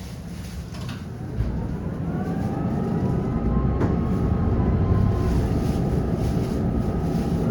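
Tram picking up speed: the traction motors' whine rises in pitch over the low rumble of wheels on rails, growing louder. There is a single sharp click a little under four seconds in.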